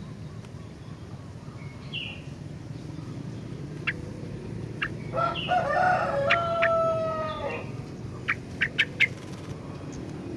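A rooster crows once in the background midway, one long call of about two and a half seconds that drops in pitch at the end. Around it, a kutilang (sooty-headed bulbul) gives short, sharp, high chirps, a quick run of four of them near the end.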